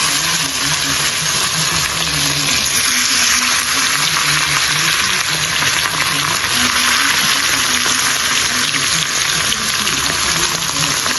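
Food frying in hot oil in a cooking pot: a loud, steady sizzle.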